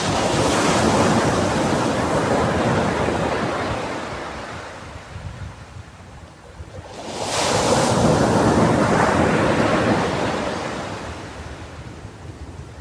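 Ocean waves breaking on a beach: one wave crashes in suddenly and washes out over several seconds, then a second wave breaks about seven seconds in and slowly fades.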